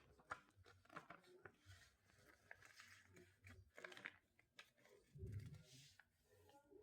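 Faint rustling and crinkling of a sheet of paper being folded in half and creased, in scattered short crackles, with a soft dull bump about five seconds in.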